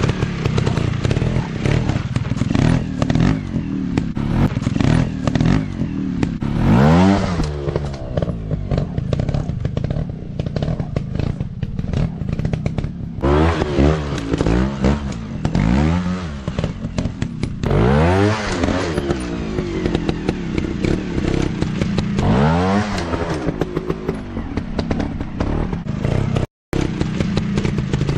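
Small single-cylinder dirt bike engines running and revving in repeated bursts, the pitch climbing and falling several times, with clattering knocks throughout. The sound cuts out for a moment near the end.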